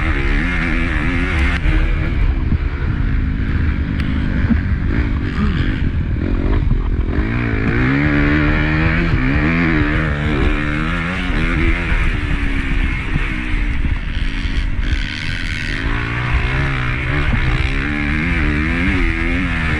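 Honda CRF250 motocross bike's four-stroke single-cylinder engine racing under load, its pitch rising and falling over and over as the throttle opens and shuts and the gears change.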